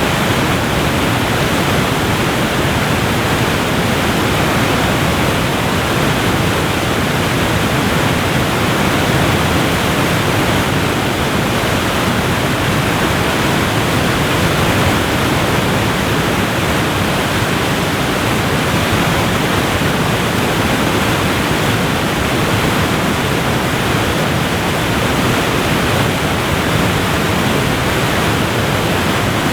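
Waterfall pouring in a steady, even rush of water noise, with no change in level and little high hiss.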